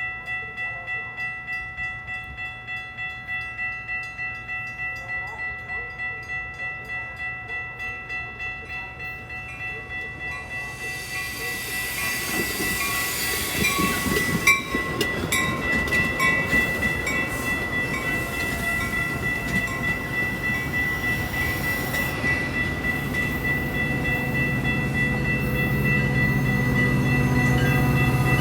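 Grade-crossing bell ringing steadily at about two strokes a second while a train approaches, its rumble and wheel noise rising from about ten seconds in and growing loudest near the end. There is a sharp click about halfway through.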